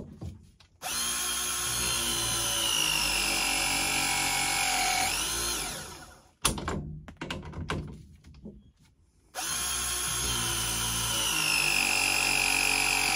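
Milwaukee ProPress crimping tool pressing two 3/4-inch copper press fittings, one after the other, each press about five seconds long. In each press the motor whine drops slowly in pitch as the jaws close on the fitting under load, then ends in a quick rising whine as the cycle finishes and releases. A sharp click comes between the two presses.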